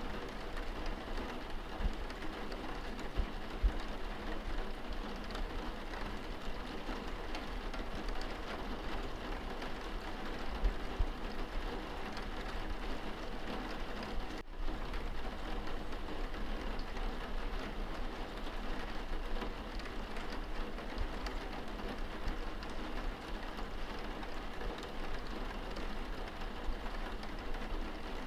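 Rain pattering on window glass, heard from indoors: a steady patter of many small drops over a low rumble, with a very brief dropout about halfway through.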